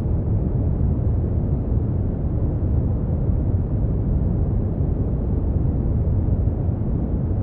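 Brown noise: a steady, deep rumbling hiss weighted heavily toward the low end, with little above the midrange and no change in level.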